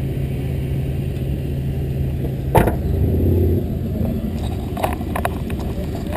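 Car engine idling with a steady low hum; about two and a half seconds in a single sharp clank, followed by a brief louder rumble, then a few light clicks and knocks near the end.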